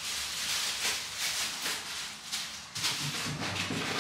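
Rummaging in an open refrigerator: a run of rustles and light knocks as containers and food are moved about, with a few dull thumps near the end.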